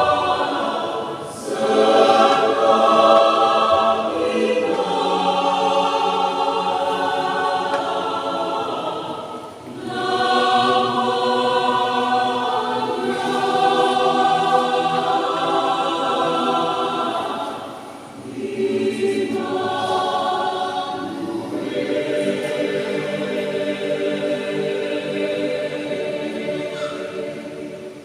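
Youth choir singing in long, sustained phrases, with short breaks for breath between them.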